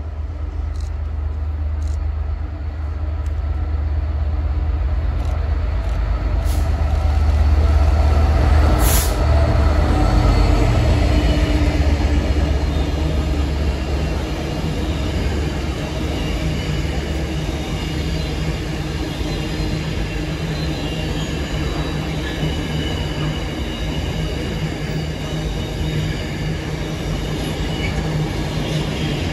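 Train passing at close range. The heavy rumble builds to its loudest about eight to nine seconds in, then settles into a steady rolling rumble with faint high wheel squeal.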